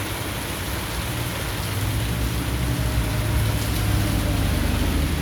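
Steady rain falling, an even hiss of drops, with a low steady hum underneath.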